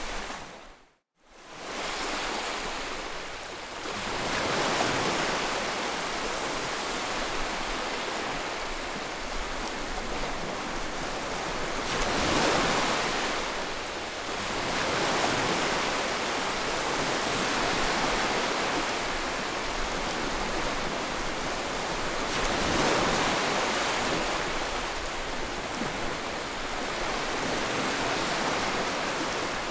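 Sea waves breaking and washing on the shore, a steady rushing surf that swells and eases every several seconds. The sound cuts out for a moment about a second in, then returns.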